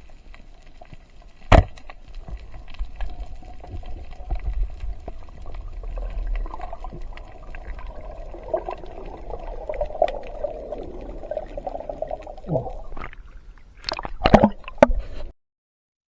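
Water sloshing and gurgling, broken by a sharp knock about a second and a half in and a quick cluster of knocks near the end.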